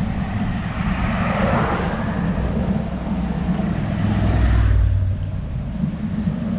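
Wind rumbling on the microphone during a road-bike ride, with a passing car's tyre noise swelling and fading about a second in.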